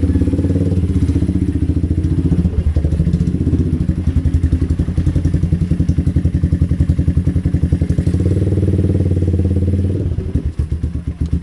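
Motorcycle engine running at low speed, with an even low pulse of several beats a second.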